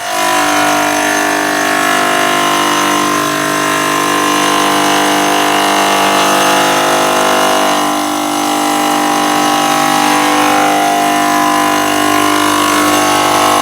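Stone cutting machine's molding router cutting into stone, starting abruptly and then running loud and steady with a whine of several steady tones.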